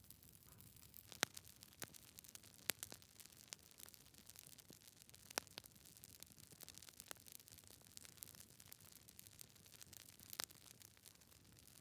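Wood fire in a fireplace crackling faintly, with a soft hiss and scattered sharp pops from the burning logs, the loudest about a second in and near the end.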